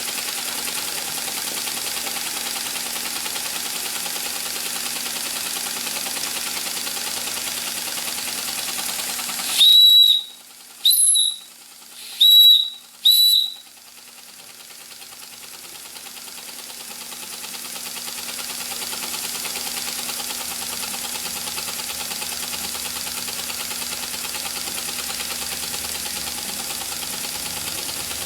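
Empire B43 live steam engine running steadily, then its steam whistle blows four short, high toots about ten seconds in, the first the longest. After the toots the engine is quieter and gradually builds back up to its steady run.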